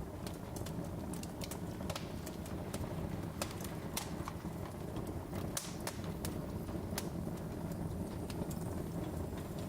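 Wood fire in a fireplace crackling, with irregular sharp pops and snaps over a low, steady rush of flame.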